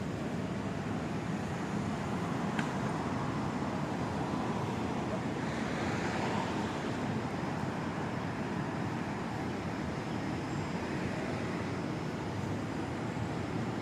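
City street traffic noise: a steady hum of passing vehicles, with one passing more loudly around the middle.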